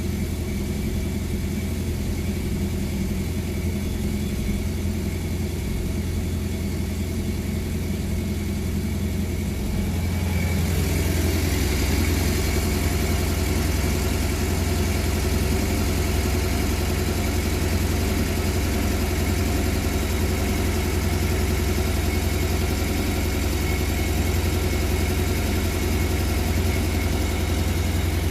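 Porsche 718 Boxster S turbocharged flat-four engine idling steadily after a cold start. About ten seconds in the sound grows louder and fuller, then settles at that level.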